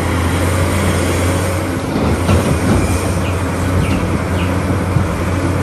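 Caterpillar 6015B hydraulic mining excavator working, with a steady heavy drone of engine and hydraulics. A few short high squeals come from about two seconds in.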